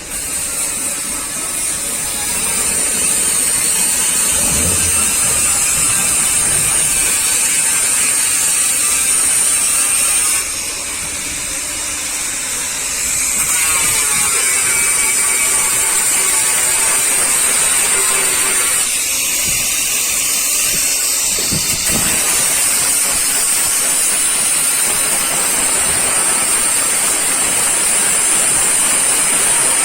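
Power sander stripping old paint from a car's body panels, running with a steady high-pitched whir; it eases off briefly about ten seconds in and changes pitch again around twenty seconds in.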